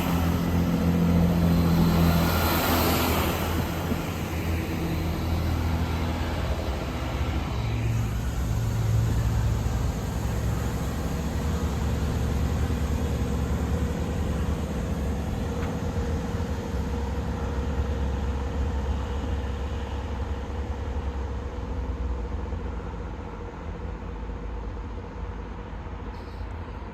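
Chiltern Railways diesel multiple unit's engines running steadily with a low hum. The sound eases off and grows quieter over the last few seconds.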